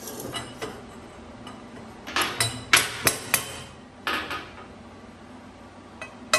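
Hammer striking steel, bending metal tabs over: a quick run of about five sharp ringing blows, roughly three a second, about two seconds in, then two more blows about four seconds in.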